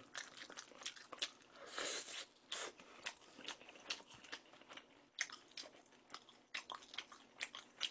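Chewing crispy fried sweet-and-sour pork (tangsuyuk) close to the microphone: quiet, irregular crunches and clicks.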